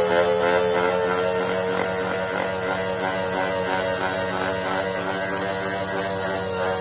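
Electric sander running steadily on the steel axe head, a continuous motor hum whose pitch eases down slightly.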